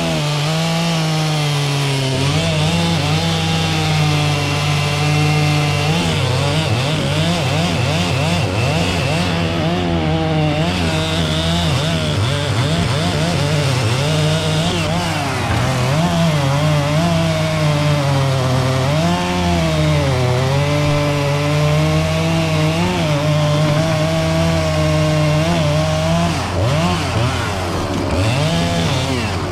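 Two-stroke chainsaw cutting wood, its revs sagging and recovering again and again as the chain bites under load. A steady low engine drone runs underneath from about two seconds in.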